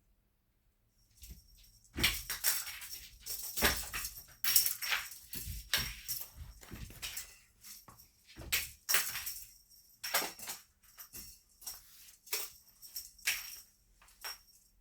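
Cat teaser wand toy rattling and jingling in a fast, irregular run of clicks, starting about two seconds in.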